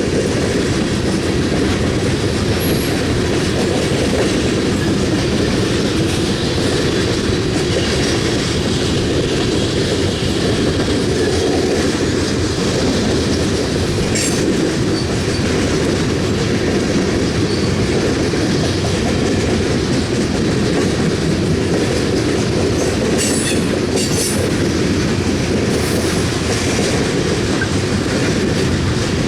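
Loaded coal cars rolling past on the rails: a steady, heavy rumble of wheels on track with clickety-clack, and a few brief high wheel squeals about halfway through and again near the end.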